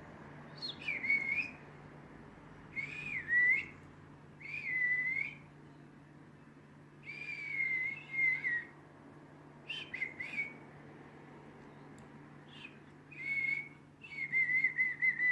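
Pet budgerigars calling: a string of about eight short chirping whistles, each bending up and down in pitch, with pauses between them.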